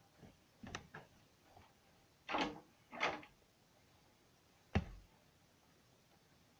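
A few scattered knocks and short bumps, with one sharp knock a little before five seconds in.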